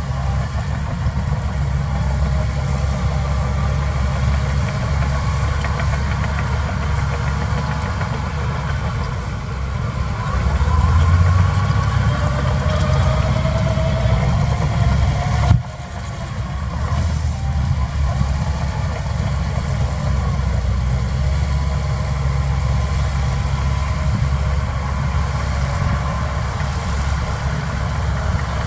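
Diesel engine of heavy earthmoving machinery running steadily. It works harder and louder with a rising whine from about ten to fifteen seconds in, breaks off suddenly, then runs on at a steady level.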